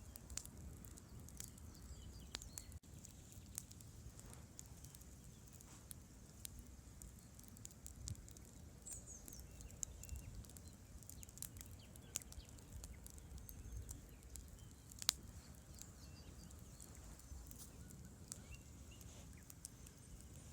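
Wood campfire crackling, with irregular sharp pops and snaps and one louder pop about fifteen seconds in, over a steady low rumble of river water. A faint bird chirps briefly near the middle.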